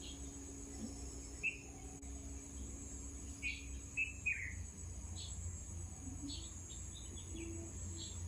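Insects droning steadily, high-pitched, with scattered short bird chirps coming every second or so from about a second and a half in.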